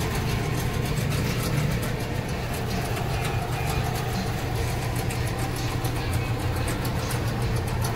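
Ford 5.0 V8 engine idling steadily, a low even hum with a light rapid ticking over it.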